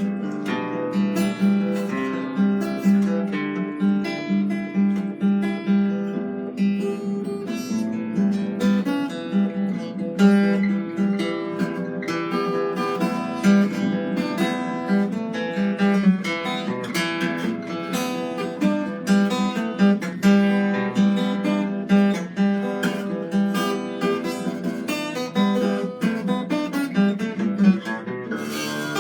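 Acoustic guitar being played, strummed and plucked, with a quick, continuous run of notes and chords.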